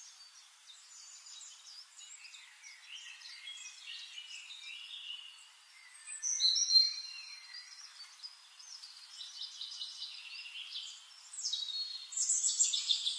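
Several birds chirping and calling in short trills and whistles, with one louder whistled call about halfway through and a burst of calls near the end.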